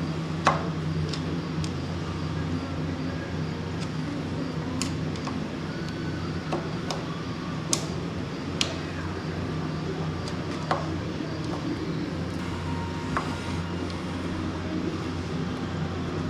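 Scattered sharp metallic clicks and taps of hand tools and small metal parts on a carburetor, a dozen or so at irregular intervals, over a steady low hum.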